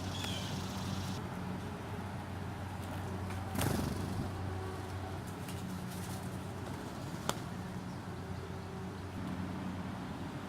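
Steady low mechanical hum with a few faint clicks, a dull thud about a third of the way in and a sharp click past the middle; a short high bird chirp right at the start.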